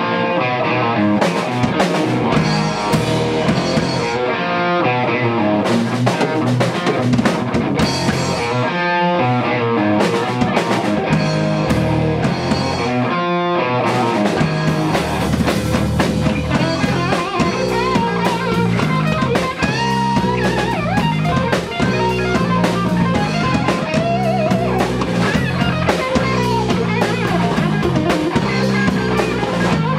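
Live rock band playing an instrumental passage between vocal lines: electric guitars, bass and drum kit. The highest and deepest sounds drop out briefly a few times in the first half, then the full band plays on steadily.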